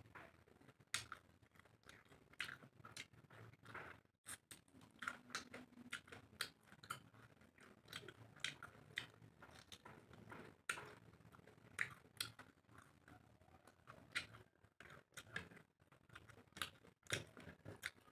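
Faint chewing and mouth smacks of someone eating rice and prawn curry by hand, in a string of irregular soft, wet clicks.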